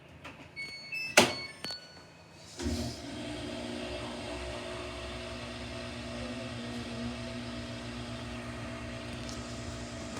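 Samsung washing machine's control panel beeping a few times with a sharp click, then the machine starting a steady mechanical hum that runs on at an even level.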